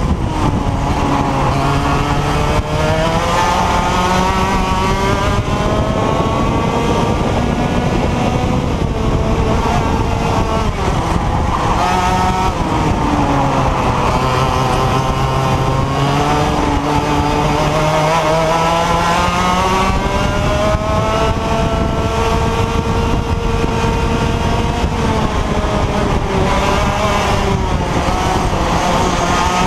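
IAME X30 125cc two-stroke kart engine running hard on track, its pitch climbing under acceleration and dropping off again, over and over.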